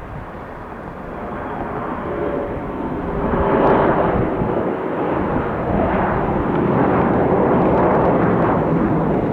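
Boeing 787-9 airliner's jet engines passing on approach to land, a rumbling noise with faint whining tones that grows steadily louder over the first few seconds and then holds.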